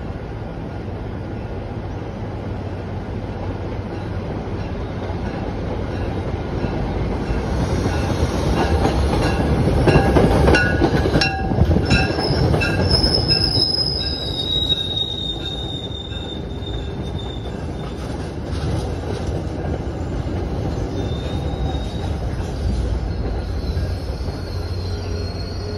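Diesel-hauled MBTA commuter rail train approaching and rolling past along the platform. Its rumble grows to a peak about ten seconds in as the front passes, with evenly spaced clicks of the wheels over the rail joints. High-pitched wheel squeals follow a few seconds later as the coaches go by.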